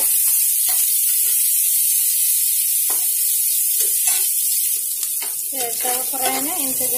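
Chopped onions sizzling in hot oil in a nonstick frying pan, with a spatula stirring and scraping through them in sharp strokes every second or so.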